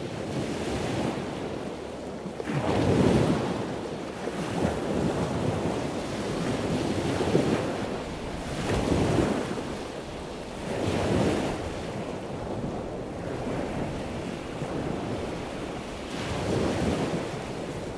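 Water rushing and splashing, swelling in surges that each last about a second, every one to four seconds.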